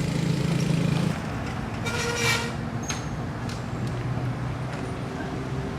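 Motor vehicle engine running close by, louder for the first second and then easing off, with a brief horn toot about two seconds in.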